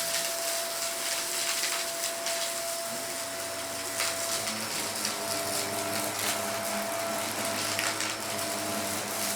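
Vacuum cleaner running with a steady whine, with a few sharp clicks of debris being picked up, the strongest about four seconds in.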